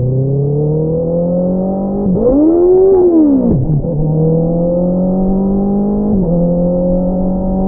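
Honda CBR650R inline-four engine through an Akrapovič single-outlet exhaust, pulling under acceleration with its pitch climbing steadily. About two seconds in the note swings up and back down, and about six seconds in it dips for a moment before climbing on again, like a quickshifted gear change.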